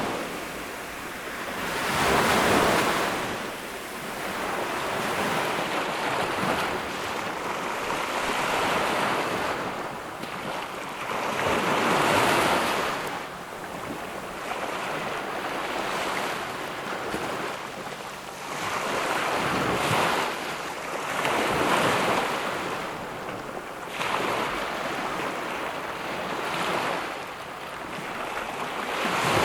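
Ocean surf breaking and washing up on a beach, rising and falling in swells every few seconds; the loudest breakers come about two seconds in and about twelve seconds in.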